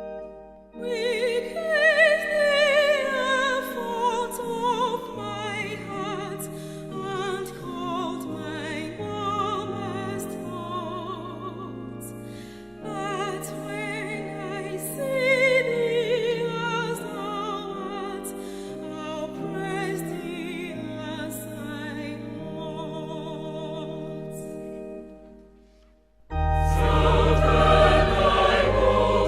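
A hymn sung with vibrato over sustained organ chords. About 26 seconds in it dies away almost to nothing, then comes back louder and fuller.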